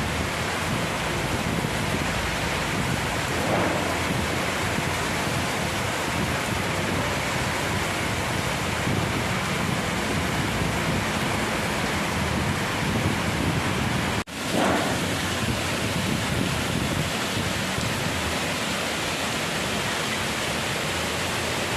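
Heavy rain driven by strong wind, a steady, even rush of noise. It cuts out for an instant about two-thirds of the way through.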